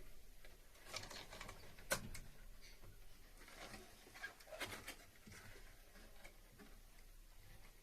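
Faint handling noises from pipe work: scattered light clicks and short rustling scrapes, with one sharper click about two seconds in.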